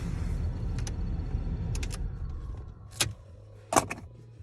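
Low rumble that drops away partway through, with a few sharp clicks and knocks, the loudest near the end, followed by a faint steady low hum.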